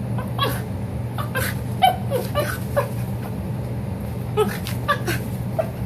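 Small dog making strange, monkey-like vocal play noises: short squeaky yips and grunts in quick runs, one cluster in the first half and another about four and a half seconds in. A steady low hum runs underneath.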